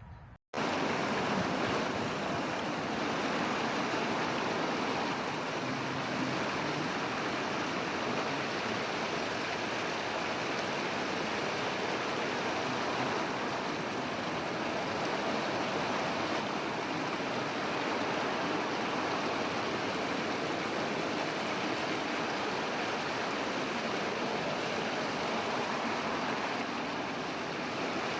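Steady rushing noise with no distinct calls. It breaks off briefly just after the start, then runs on evenly.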